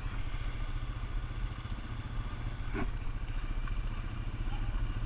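ATV engine running steadily at a constant speed, with an even low pulse. There is one brief sharp squeak a little past the middle.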